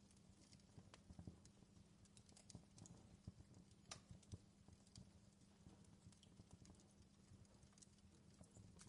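Faint wood fire crackling in a fireplace: irregular small pops and snaps over a low steady rumble.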